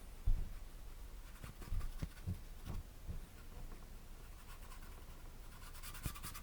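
Paintbrush scrubbing acrylic paint onto a canvas in quick short strokes, the scratching growing stronger near the end, with a few soft low knocks in the first three seconds.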